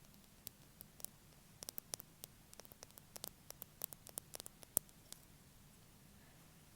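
Fake fingernails tapping: a quick, irregular run of light, sharp clicks that stops about five seconds in.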